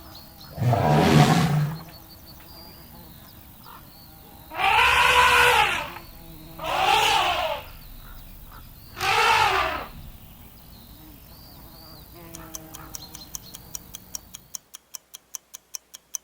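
Elephant trumpeting: four loud calls, each rising and then falling in pitch. Near the end comes a run of quick, evenly spaced ticks.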